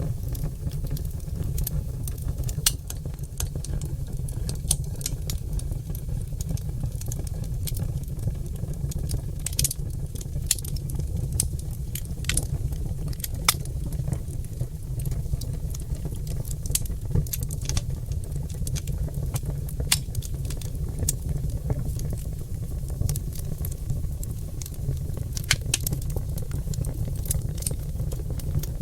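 Oak logs burning in a fireplace, crackling and popping: sharp irregular pops and snaps over a steady low rush of the fire.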